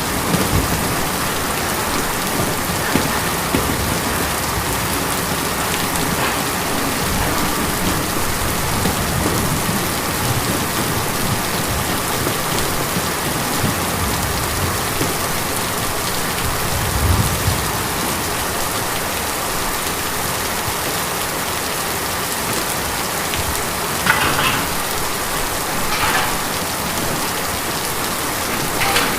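Steady rain drumming on a tin roof, with a brief low rumble just past halfway and a few louder drips or splashes near the end.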